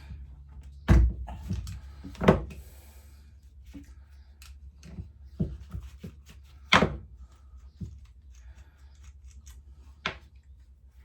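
Hand tools and small metal mower parts being handled: scattered clicks and several sharp knocks, the loudest about a second, two seconds, seven seconds and ten seconds in, during work on the carburettor.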